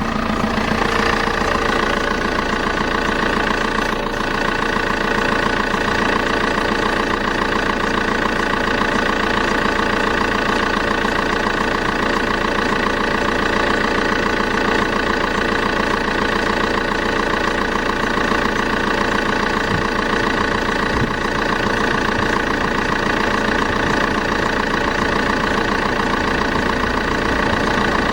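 Vauxhall Insignia 2.0 CDTI four-cylinder turbo diesel starting from cold: it catches suddenly, runs a little harder for the first second or so, then settles to a steady idle.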